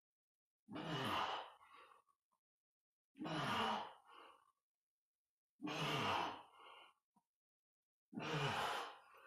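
A man's voiced effort exhalations, one on each rep of a dumbbell lift: four sighing breaths about two and a half seconds apart, each falling in pitch and trailing off.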